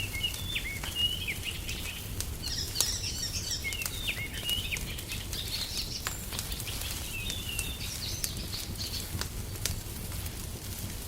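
Songbirds twittering in short bursts of high chirps over a crackling fire, with scattered sharp pops and a steady low rumble underneath.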